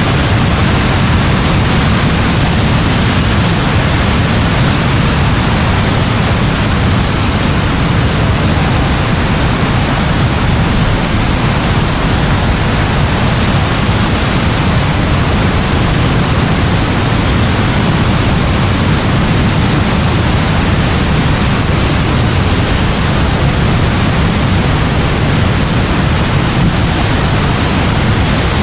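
Heavy rain falling in a steady, even downpour, a dense hiss with a strong low rumble beneath it and no separate thunderclaps.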